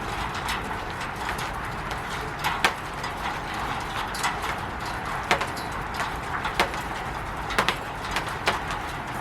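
Rain falling on a roof: a steady hiss with irregular louder taps and drips landing a few times a second.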